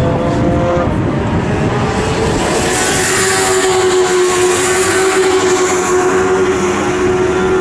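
Race car engines running hard on a circuit, one engine note held steady through the middle with other notes rising and falling around it.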